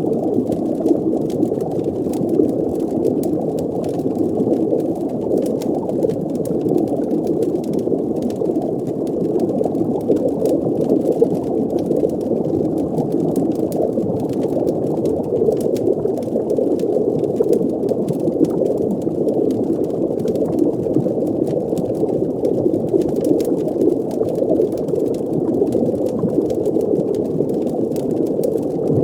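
Steady, muffled underwater ambience: a dense low bubbling rumble of water, with faint scattered crackles over it.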